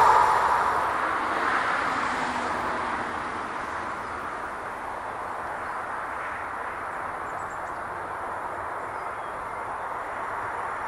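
A passing train's rumble dying away over the first three or four seconds, leaving a steady even hiss of the open-air background.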